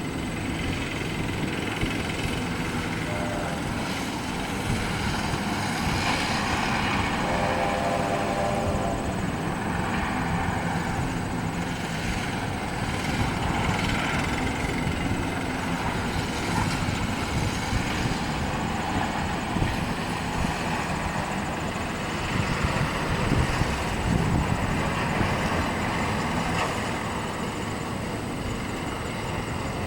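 Union Pacific train passing, a steady heavy rumble of the locomotive and rolling cars that holds throughout. A brief cluster of steady tones sounds about a quarter of the way in.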